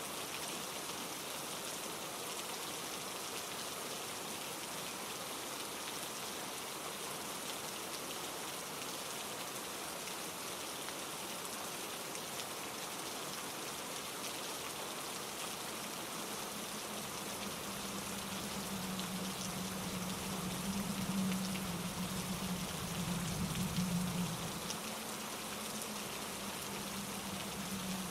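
Steady rain falling through trees, mixed with a mountain stream rushing over rocks. A little past halfway a low droning rumble comes in and swells twice.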